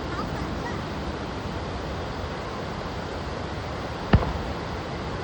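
A steady rushing background noise, with a single sharp firework bang about four seconds in.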